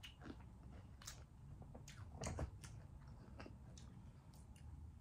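Faint chewing and biting on a candy, with scattered crisp crunching clicks, the loudest cluster a little after two seconds in.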